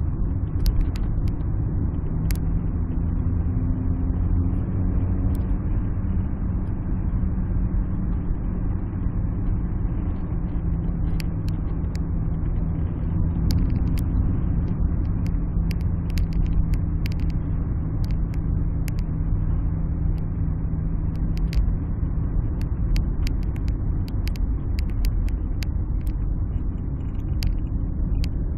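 Alfa Romeo 156 being driven, heard from inside the cabin: a steady low rumble of engine and road noise. A steady engine hum holds through most of it and fades about three quarters of the way through. Scattered light clicks sound throughout.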